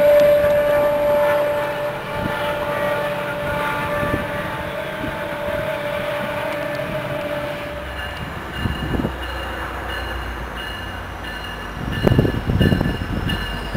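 A train horn holds one long chord-like note that fades out about seven seconds in. Then a diesel locomotive's low rumble comes in, and near the end the clanking of wheels over the track as a train comes through.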